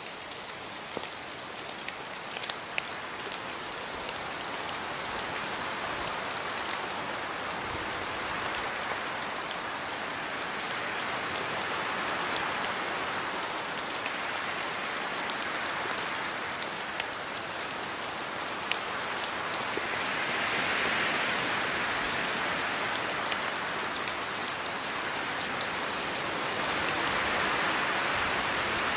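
Steady rain falling on a yard, with many individual drops ticking on nearby surfaces; the downpour swells and eases gently in strength.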